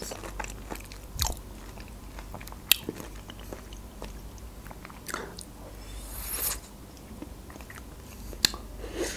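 Close-miked mouth sounds of chewing a bite of nectarine, with scattered wet clicks and smacks. Near the end comes a sharp crack as she bites into the chocolate coating of a Magnum ice cream bar.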